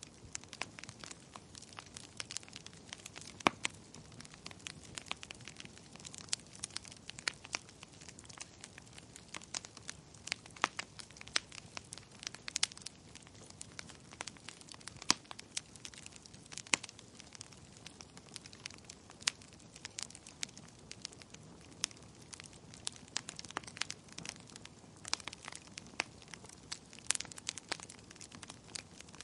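Fire crackling in a fireplace: irregular sharp pops and snaps, several a second, some louder than others, over a low steady hiss.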